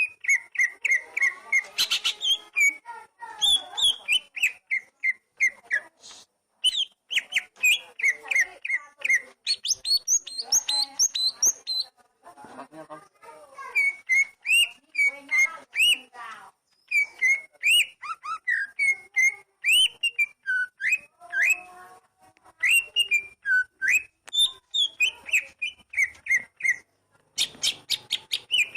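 Oriental magpie-robin singing: rapid, varied phrases of clear whistled notes and chirps, broken by brief pauses.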